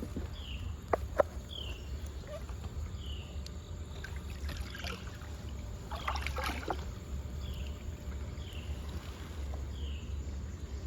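River water sloshing and dripping around a kayak as bottles are lifted from the river bed, with a couple of sharp knocks and two splashy stretches in the middle. A short falling chirp repeats about once a second in the background.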